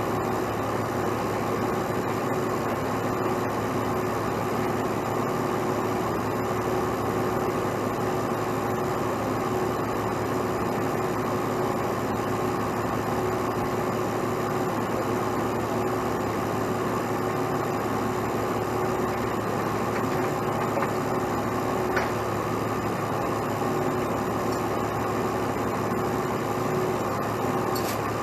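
Heavy truck engine running steadily at an even speed with a constant hum.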